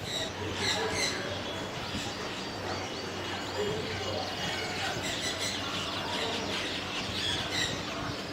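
Many small caged birds chirping and twittering together, with short overlapping chirps and trills.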